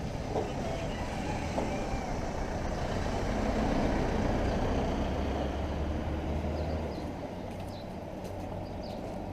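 A motor vehicle passing: its low engine rumble builds about three seconds in, is loudest in the middle, and eases off about seven seconds in.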